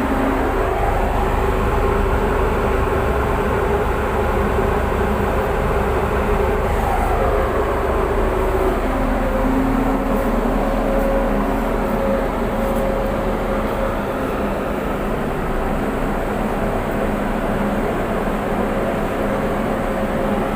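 A tug's diesel engines running steadily, heard on board, with the engine note shifting in pitch a couple of times as the tug manoeuvres.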